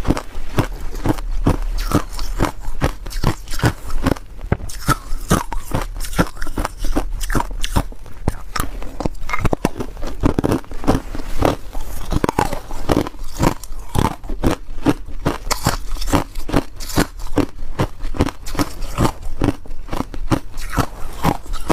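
Ice being bitten and chewed close to the microphone: rapid, irregular crunches and cracks, several a second, without pause.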